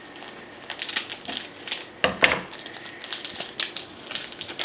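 A shipping package being cut open and handled: irregular snips, clicks and crinkling of the packaging, loudest about two seconds in.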